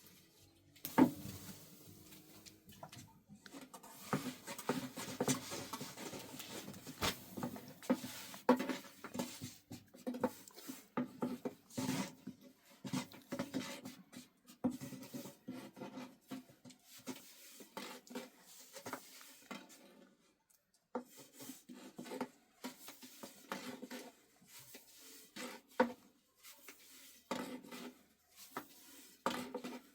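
Irregular knocking and clattering of objects being handled, many quick knocks with short rings and a few louder knocks among them.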